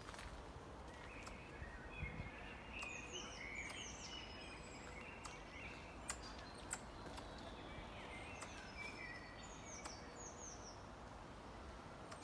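Songbirds singing in the trees: short, high falling notes repeated again and again over lower chirps, against a faint outdoor background hum, with two sharp clicks about halfway through.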